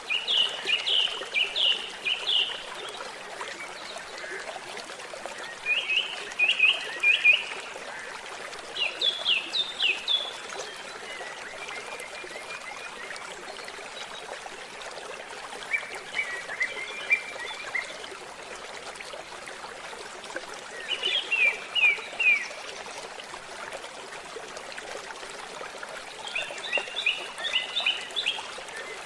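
A stream trickling and gurgling steadily, with a songbird singing short phrases of four to six quick high notes, repeated about every four to five seconds.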